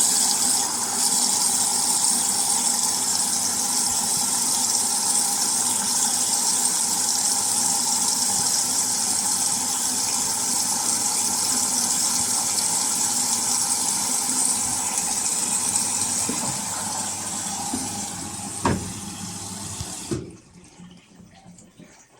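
Indesit Innex washing machine taking in water: a steady rushing hiss of water flowing into the machine, with a sharp click near the end, then the flow cuts off suddenly.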